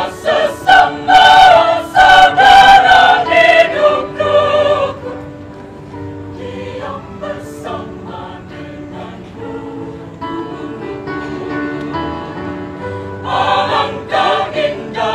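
Choir singing a Christian sacred song: loud phrases at first, a softer passage in the middle, then swelling loud again near the end.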